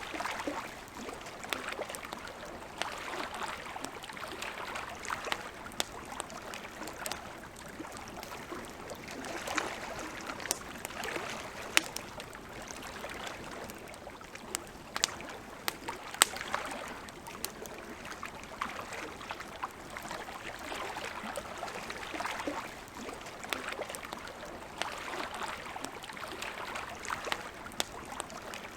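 Wood campfire crackling, with scattered sharp pops (the loudest about twelve and sixteen seconds in), over a soft wash of lake water lapping in slow swells.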